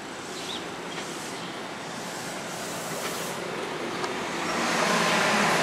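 Long Island Rail Road M7 electric commuter train pulling into the station and passing close by, its wheels on the rails and its running gear growing louder as it nears. It is loudest from about four and a half seconds in, as the cars draw level.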